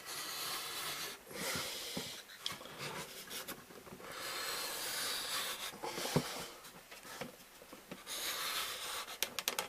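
Cavan balsa stripper pulled along a sheet of balsa wood, its blade cutting off a quarter-inch strip: several scraping strokes with short pauses, and a knock about six seconds in.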